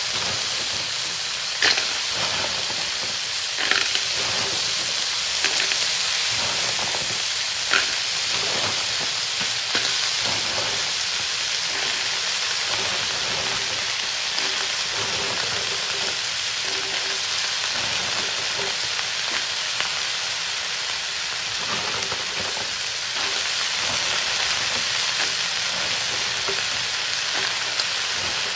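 Rice field snails frying in hot oil in a metal wok: a steady sizzle, with a few sharp clicks in the first eight seconds or so.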